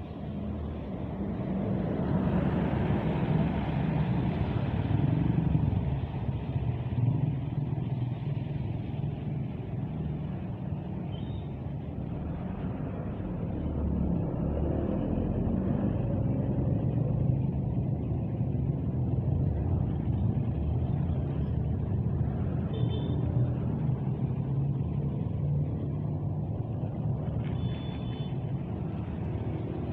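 Large bus diesel engines running and moving around a bus terminal, a steady low rumble that swells about two seconds in, with a few brief high-pitched tones later on.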